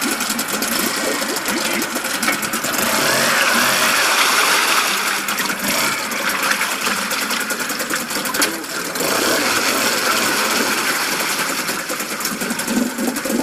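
1987 Yamaha 4 hp two-stroke outboard motor running with a fast, rattly buzz, getting louder for a few seconds around the third second before settling back.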